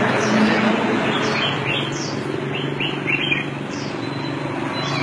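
Small birds chirping, short high falling chirps repeating about once a second, with a few quicker runs of chirps near the middle, over a steady low hum of street noise.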